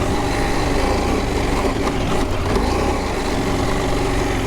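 Adventure motorcycle engine running under throttle while riding off-road, with a steady rush of riding and wind noise over it.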